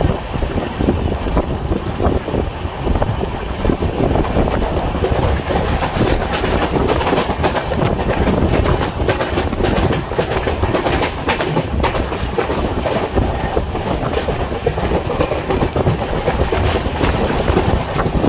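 Indian Railways express passenger train running at speed, heard from on board. A steady rumble is overlaid by the wheels clattering over the rails, and the clicks come thick and fast from about five seconds in.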